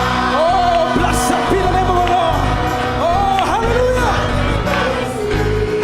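Gospel choir singing a sustained passage of a worship song over the band, the voices holding and gliding between notes above a steady bass.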